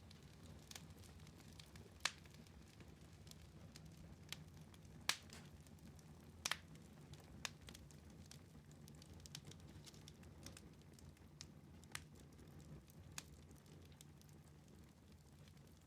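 Wood fire burning in a fireplace: a low steady rumble of flame with scattered sharp crackles and pops, the loudest about 2, 5 and 6.5 seconds in.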